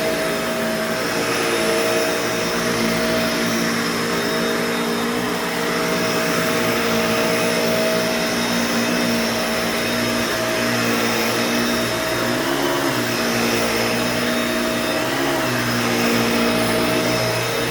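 Bissell Pet Hair Eraser Turbo upright vacuum cleaner running loud and steady, its motor hum topped by a whistly note. The pitch dips briefly twice in the second half as the vacuum is worked over the floor.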